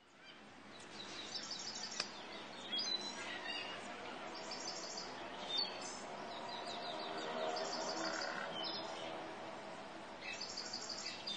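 Birds chirping, with short bursts of rapid high trills coming every few seconds.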